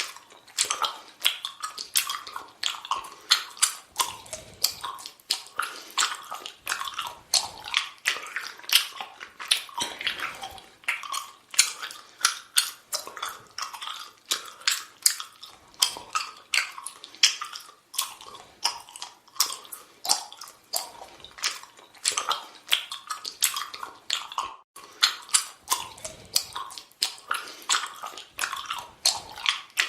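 A person chewing bubble gum with the mouth open, a steady run of wet smacking clicks about two or three a second.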